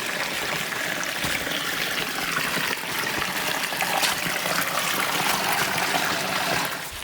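Creek water running over rocks, a steady rushing trickle that fades just before the end.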